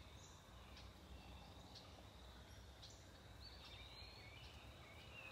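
Near silence with faint background noise and a few scattered, faint bird chirps and short whistled notes.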